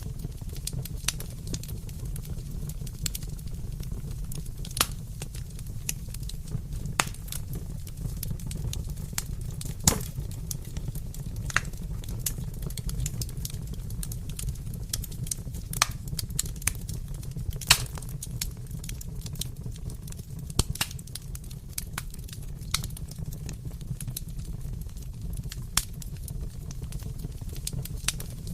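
Wood fire crackling: a steady low rumble of flames with irregular sharp pops and snaps, a few of them louder.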